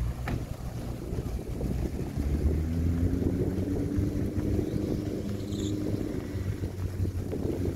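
Suzuki Jimny's engine running steadily at low revs as the small 4x4 drives slowly by on gravel, getting louder about two seconds in as it comes closer.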